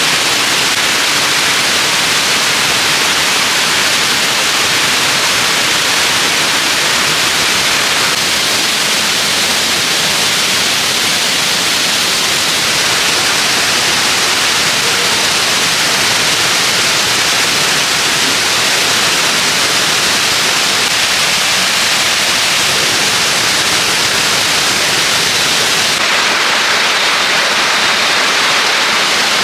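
Waterfall pouring, a loud, steady rushing roar of falling water with a bright hiss and no breaks.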